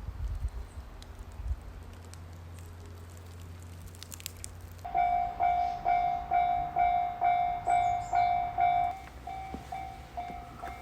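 A low steady rumble, then about five seconds in a Japanese railway level-crossing warning bell starts ringing, an even, repeated clang of about two strikes a second. It gets quieter about nine seconds in.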